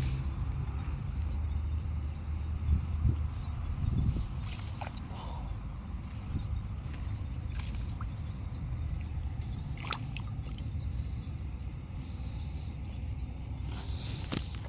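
Outdoor ambience: a steady high-pitched insect trill over a low rumble, with a few faint clicks scattered through.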